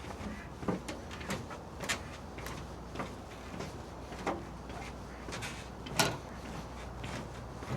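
Footsteps of a person walking at a steady pace, a sharp step about every half second, one noticeably louder about six seconds in.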